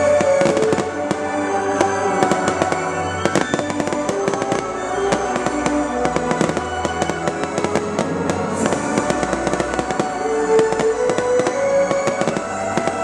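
Aerial fireworks bursting and crackling in quick succession, many sharp pops throughout, over show music played through loudspeakers.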